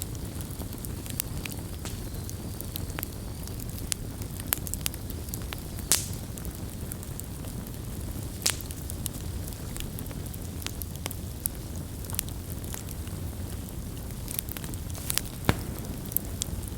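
Wood campfire burning with a steady low rumble and irregular sharp crackles and pops, a few louder snaps standing out.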